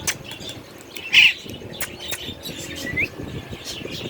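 Pet birds chirping and calling, with one louder, harsh squawk about a second in and a short rising whistle about three seconds in.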